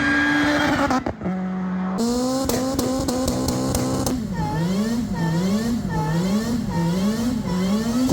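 2014 Acura MDX's V6 breathing through a custom full 3-inch exhaust, revving. The first few seconds are held revs at a few different pitches, cut apart abruptly. From about halfway in come repeated revs that rise and fall about once a second.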